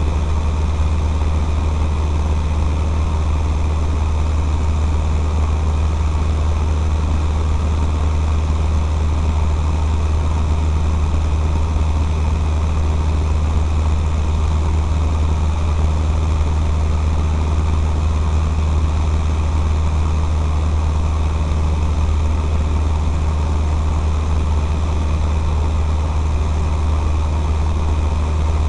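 Cessna 152's Lycoming O-235 four-cylinder engine and propeller in flight, a steady low drone that holds an even level throughout.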